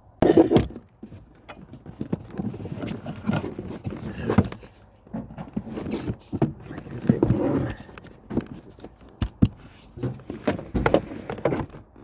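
Cabin pollen filter being handled in its housing under the glove box: irregular rustling and scraping with scattered clicks and knocks.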